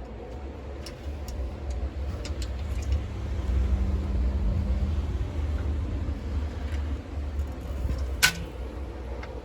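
Snowstorm wind gusting against the microphone as a low rumble that swells over a few seconds and then eases. A single sharp click comes near the end.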